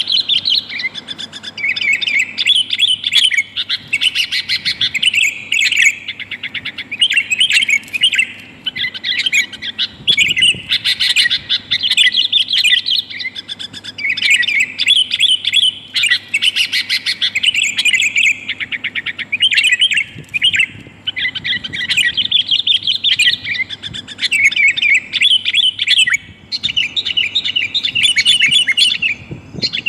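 Sooty-headed bulbul (kutilang) calling: a female's call to males, used as a lure for trapping. It comes in fast, busy runs of chirps with short pauses between them, over a faint steady hum.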